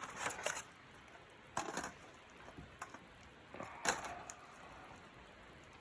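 Three short knocks or rustles, the loudest about four seconds in, over a faint steady hiss.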